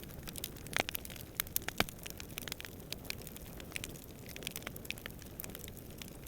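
Campfire burning and crackling, with irregular sharp pops and snaps, a few louder ones about a second and two seconds in, over a steady low rumble of distant wind.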